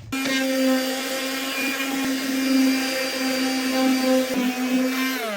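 A handheld electric power tool motor running at a steady speed for about five seconds, then winding down with falling pitch as it is switched off.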